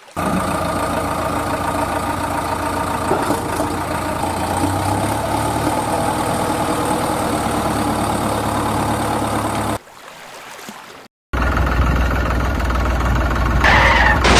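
Steady engine sound, idling, that cuts off just under ten seconds in. After a short silence a second engine sound with a deep hum starts, and a loud rush of noise joins it near the end.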